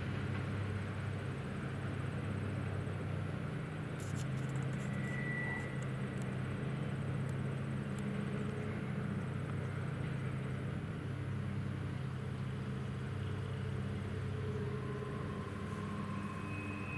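Distant Norfolk Southern freight train rolling past, a steady low rumble of diesel locomotive engines and moving cars. A brief high-pitched squeal comes about five seconds in.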